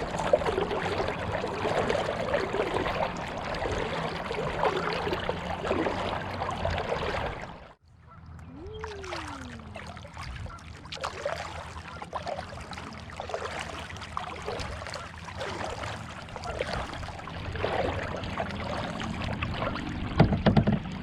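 Kayak paddling: paddle strokes dipping and splashing, with water running along the hull. The sound cuts off suddenly about eight seconds in and comes back quieter, with irregular splashes, a short rising-and-falling tone just after the break, and a few knocks near the end.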